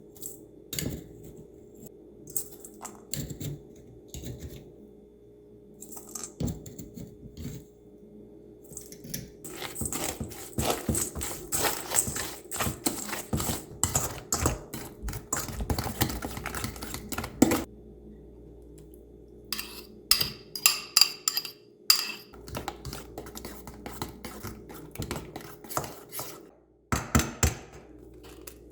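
Kitchen utensils clinking and scraping against a bowl during baking prep: scattered clicks, then two stretches of rapid clatter around the middle, over a faint steady hum.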